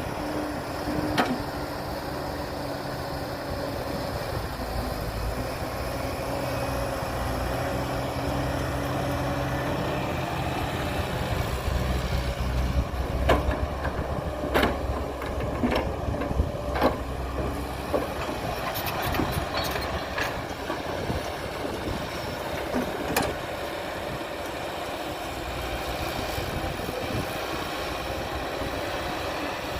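Heavy diesel engine of earthmoving machinery running steadily at a low hum. About halfway through comes a run of sharp knocks and clanks lasting several seconds.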